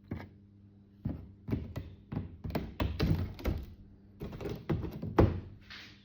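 A string of short knocks, taps and scrapes as hand tools work at ballasted model railway track on a layout baseboard, prying it up and pulling its track pins. The loudest knock comes near the end.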